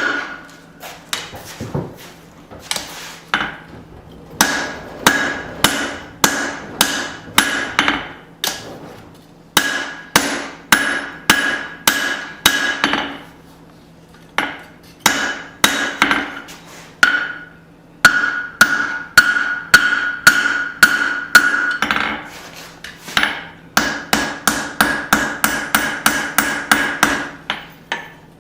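Hand hammer striking hot steel on an anvil in runs of steady blows, about two a second, the anvil ringing between strikes. The runs break off for several short pauses, and the blows come quicker near the end.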